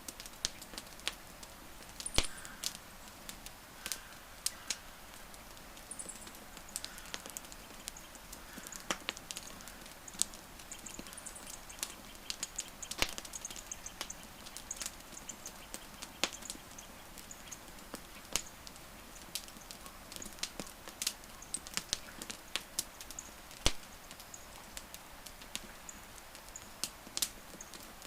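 Wood fire crackling: a steady stream of irregular small crackles and snaps, with a few sharper pops from the burning wood, about two seconds in, near the middle and late on.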